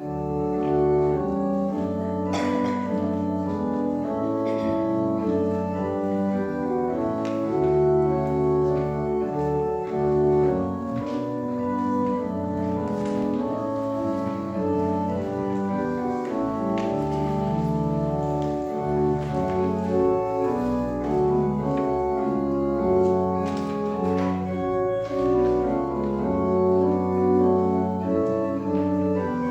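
Church organ playing sustained chords, starting abruptly at the beginning.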